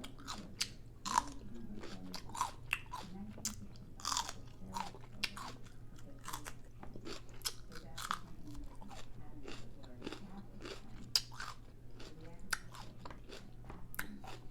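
Close-up chewing of a crunchy hard-shell taco boat, with crisp crunches coming at uneven intervals.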